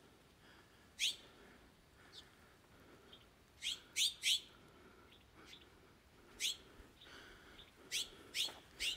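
A bird calling with short, sharp, high chirps at irregular intervals, including a quick run of three about four seconds in, over a faint background hiss.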